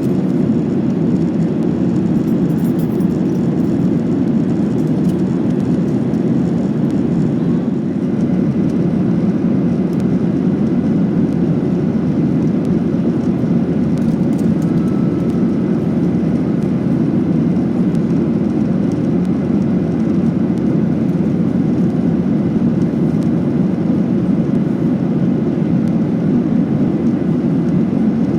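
Steady cabin roar inside a Boeing 737-800 in its climb: the CFM56-7B turbofan engines and the airflow past the fuselage, a deep, even rumble with faint steady tones in it.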